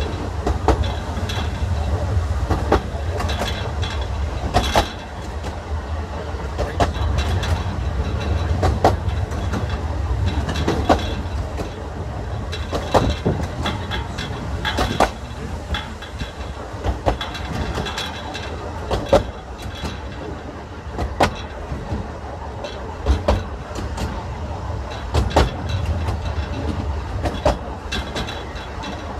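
Narrow-gauge railway coach running along the line: a steady low rumble with clanking, and a sharp click of the wheels over a rail joint about every two seconds.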